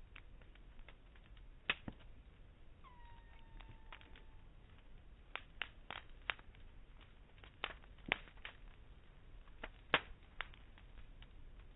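Campfire crackling: irregular sharp pops and cracks from the burning wood, about a dozen over the span, with a brief falling whistle about three seconds in.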